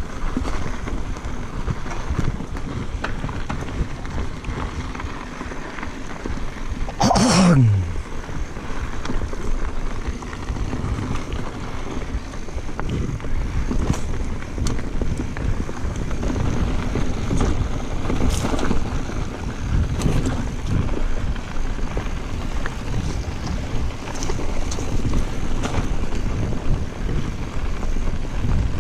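Mountain bike riding down a dusty dirt singletrack: wind buffeting the microphone over tyre noise, with scattered clicks and rattles. About seven seconds in, a short sound falls steeply in pitch.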